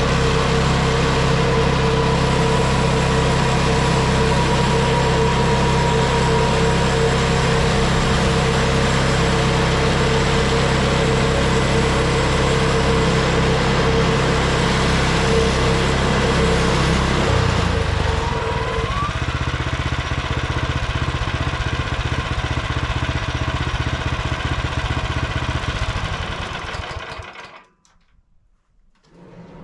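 Frontier OS23 bandsaw mill's small gas engine running loud and steady at high speed, dropping to a lower, rougher run a bit over halfway through with a brief rising whine, then shutting off near the end.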